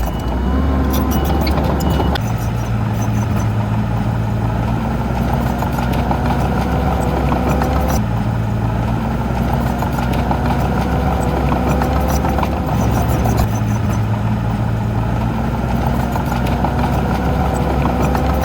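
Heavy diesel engine of an earthmoving machine running steadily, its note shifting about two seconds in and again about eight seconds in.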